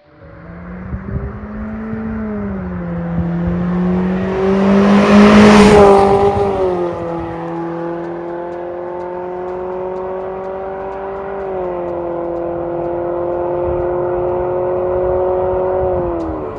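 Nissan Sentra's HR16DE 1.6-litre four-cylinder running at idle through an MS-R valved cat-back exhaust, a steady low exhaust note that swells louder about five seconds in and drops a little in pitch near the end.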